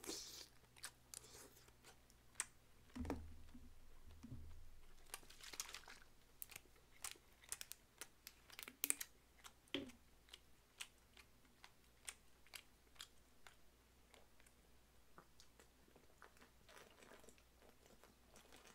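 Quiet, close-miked chewing of pork offal from a soup, with irregular wet mouth clicks.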